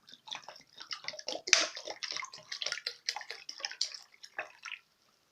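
Water splashing and dripping as a whole duck is moved about in a bowl of soaking liquid: irregular small splashes and drips that stop near the end.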